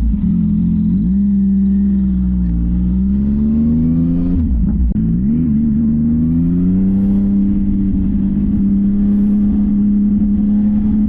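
CFMOTO 675NK's inline-three engine running through a titanium full-system exhaust while riding. The engine note dips, climbs, drops sharply about four and a half seconds in, climbs again and then holds steady.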